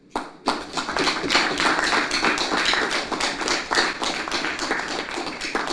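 Audience applauding: many hands clapping in a dense, uneven patter that starts suddenly and begins to die away near the end.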